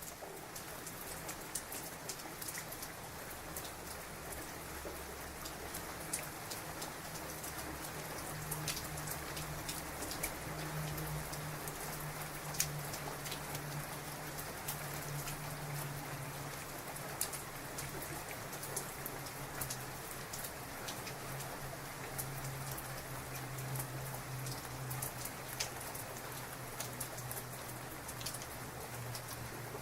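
Heavy rain falling steadily, with many close drops ticking sharply on a surface, over a low rumble that swells and fades.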